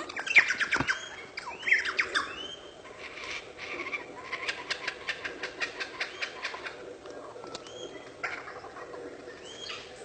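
A bird calling. A string of harsh squawks comes in the first two seconds, then a fast series of sharp clicks, then a few more calls near the end.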